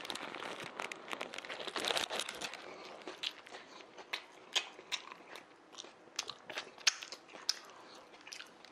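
A person biting into a Subway sandwich and chewing it: crunching for about the first two seconds, then sparse, sharp wet clicks of chewing.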